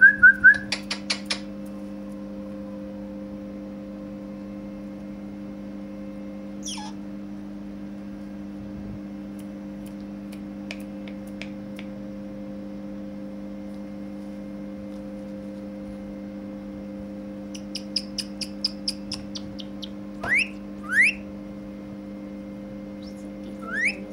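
Ringneck parakeet chirping and whistling in short spells: a quick run of notes at the start, a single falling whistle, a fast chatter of short chirps, and then two rising whistles, with long pauses between.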